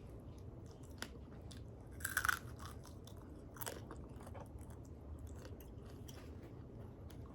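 Close-up eating sounds: chewing and biting into extra-crispy air-fried chicken wings, with one loud crunching bite about two seconds in and a smaller crunch a little later, between softer wet chewing clicks.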